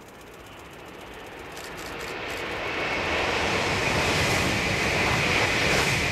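N700 series 7000-number Shinkansen train passing at high speed: a rushing noise that builds over a few seconds, holds loud with a steady high whine, and starts to fall away at the very end.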